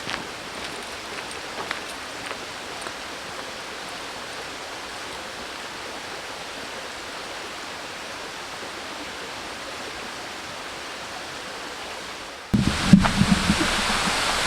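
Steady rush of water from Munising Falls, which jumps suddenly louder and brighter about twelve seconds in.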